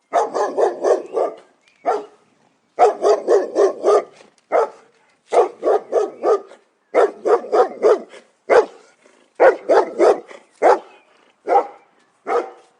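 A dog barking in quick runs of four to six barks, about five a second, with single barks and short pauses between the runs.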